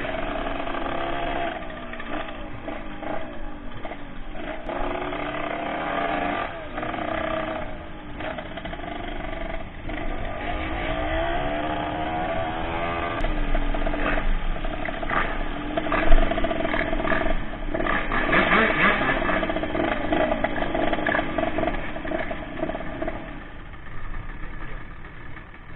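Motorcycle engine running while riding, its pitch rising and falling repeatedly with the throttle, with one sharp knock about sixteen seconds in.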